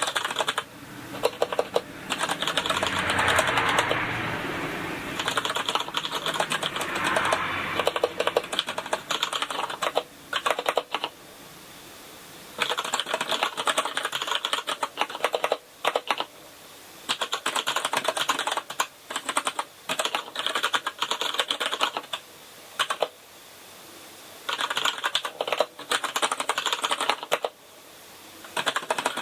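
Typing on a Kinesis Advantage contoured keyboard with brown (tactile) switches: fast runs of key clicks broken by short pauses.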